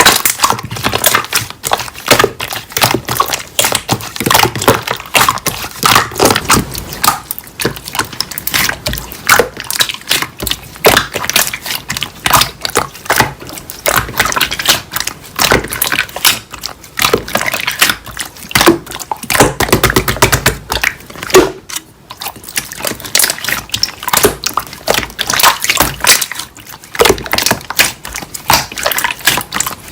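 Slime being squeezed, stretched and pressed by hand, with dense, irregular sticky clicking and popping of trapped air.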